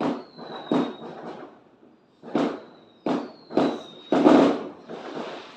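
Firecrackers and fireworks going off: a series of sharp bangs, about six or seven, each with a short echoing tail, the loudest about four seconds in, some followed by a thin falling whistle.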